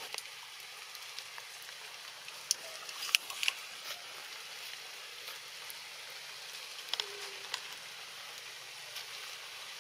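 Steady rain falling on forest leaves, with a few louder drops ticking sharply, clustered about three seconds in and again around seven seconds in.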